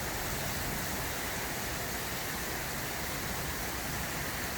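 Heavy rain falling steadily, an even hiss with no separate drops standing out.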